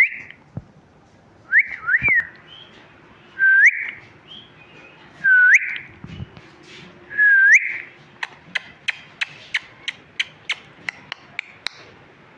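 Pet parrot giving about six short whistles, each dipping and then sweeping sharply upward, a second or two apart. They are followed by a quick run of about a dozen sharp clicks.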